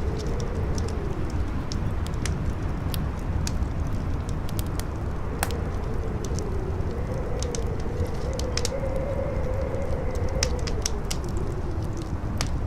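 Campfire crackling and popping over a strong wind, with one sharper pop about five and a half seconds in. Under the crackle the wind rumbles low and howls in a tone that slowly rises and falls.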